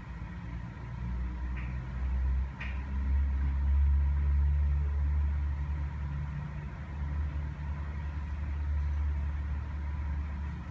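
Low, steady rumble like an idling vehicle engine, swelling a little about three seconds in, with two faint clicks early on.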